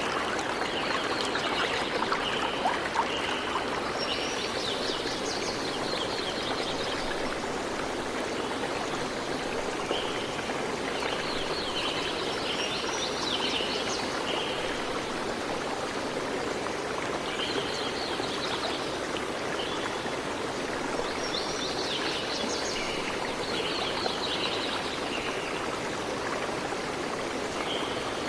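Steady rushing water, with songbirds chirping over it in short bouts every few seconds.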